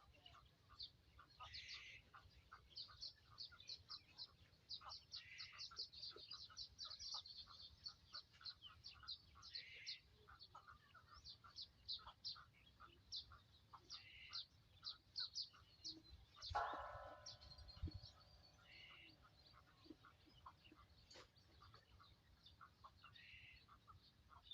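Faint outdoor birdsong: a steady stream of rapid, short, high chirps, with a few brief hoarser calls every few seconds and one louder single call about two-thirds of the way through.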